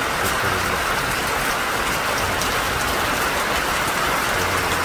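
Heavy rain falling hard in large drops, a steady dense hiss with no let-up.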